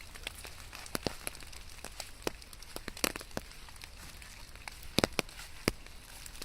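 Rain: a soft hiss with large drops tapping irregularly and sharply, a quick cluster of louder taps about five seconds in, over a low steady rumble.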